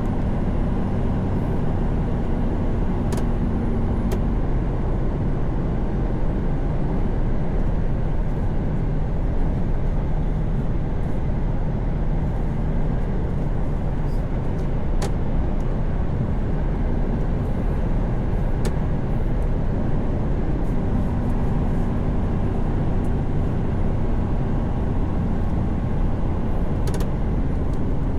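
Mercedes-Benz Actros truck cruising at steady motorway speed: an even drone of engine and tyre-on-road noise, with a few faint short clicks.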